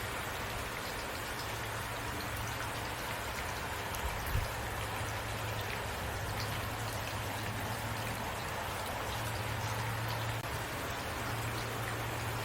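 Heavy rain falling steadily, with individual drops tapping close by over a low, even rumble. There is one dull thump about four seconds in.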